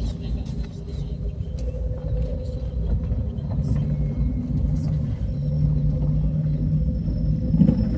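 Motor vehicle driving, its engine humming at a steady pitch under a low road rumble, with scattered knocks and rattles.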